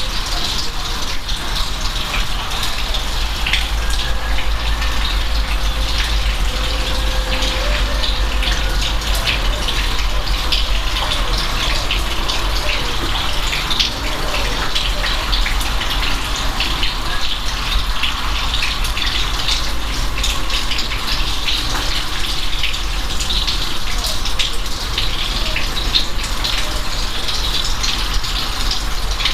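Steady rain: a constant hiss of falling water with many separate drop hits ticking sharply through it, over a deep steady rumble.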